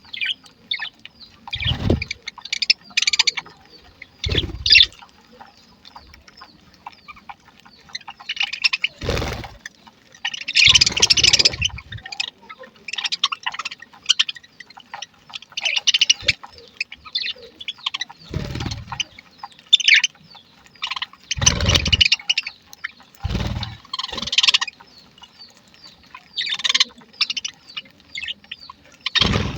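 A flock of budgerigars chirping and chattering, many short high calls overlapping, with about eight brief low thuds or rumbles spread through it.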